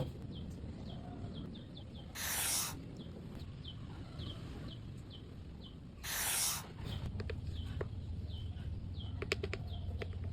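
A small bird chirping over and over, a short high falling note about twice a second, over a steady low hum. Two brief loud bursts of hiss, about half a second each, come a few seconds apart, and a few sharp clicks come near the end.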